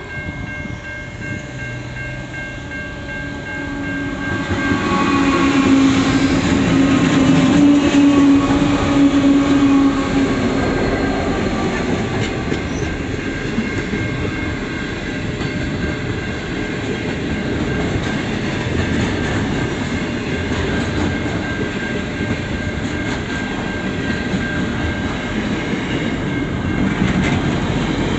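Freight train led by NR class diesel-electric locomotives passing close by, loudest about five to ten seconds in as the locomotives go past. It is followed by a steady rumble and clatter of intermodal container wagons rolling over the crossing. Level crossing warning bells ring steadily throughout.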